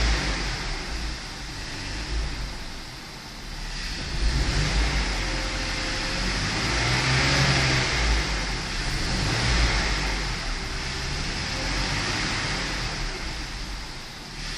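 BMW 520i E60's 2.2-litre M54 straight-six running, its sound swelling and easing every few seconds over a steady rushing noise.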